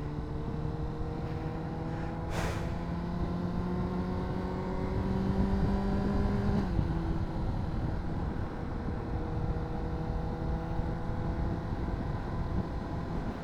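Honda CBR600RR's inline-four engine through a Yoshimura slip-on exhaust, heard from the saddle over wind noise. Its pitch climbs slowly for about six and a half seconds, then drops suddenly and holds steady. A brief rush of noise comes about two seconds in.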